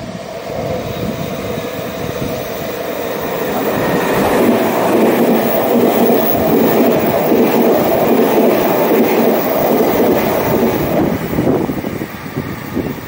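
A Meitetsu electric train going by on the track, its rail and running noise swelling about four seconds in, staying loud, then easing near the end.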